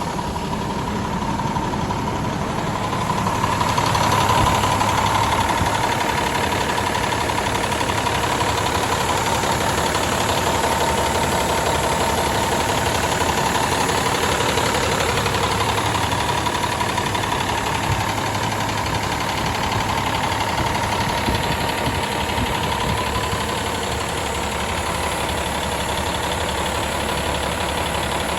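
2004 Cummins ISM inline-six diesel engine running steadily at idle, a little louder for a moment about four seconds in.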